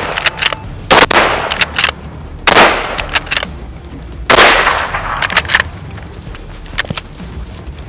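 Three heavy rifle shots fired at an elephant bull, about a second and a half apart, each with a long rolling echo, with sharp metallic clicks between them.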